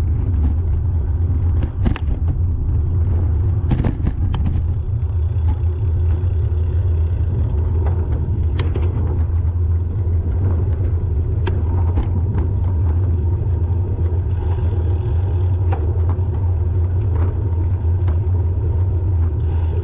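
Steady low rumble of a motor vehicle, with a few sharp clicks or knocks scattered through it.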